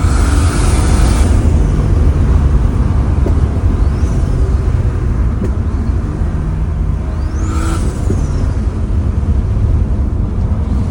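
Turbocharged BMW M54B22 2.2-litre inline-six running under way at about 0.45 bar of boost, a steady low engine drone. Over it the turbo's high whistle rises and falls a few times, most clearly near the start and about three-quarters through, with a short rush of air as it peaks.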